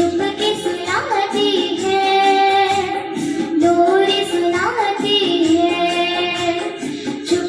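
A young girl singing melodically, holding long notes with sliding ornaments between them.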